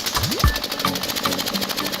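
Small petrol engine running with a rapid, steady chatter, with background music over it.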